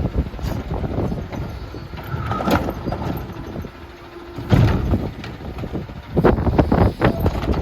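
Garbage truck with a Curotto Can automated cart arm working a line of carts: engine running, with sharp knocks and clanks of the arm and carts. Heavy gusts of wind buffet the microphone.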